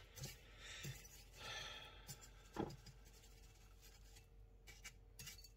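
Faint rustling and scratching of raw chicken strips being rolled around in a bowl of crushed cornflake and cornmeal coating, with one soft knock about two and a half seconds in.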